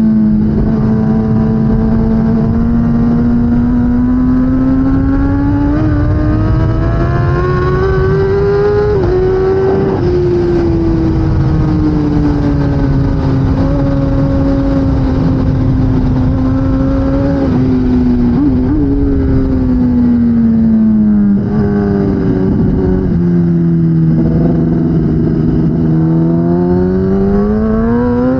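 2016 Kawasaki ZX10R's inline-four engine running hard at racing speed. Its pitch slowly rises and falls as the throttle opens and closes, with a few brief stutters, over a steady low rush of wind noise.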